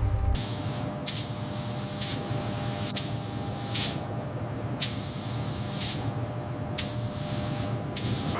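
Repeated short bursts of spraying hiss, about one a second, each starting sharply, over a faint steady machine hum.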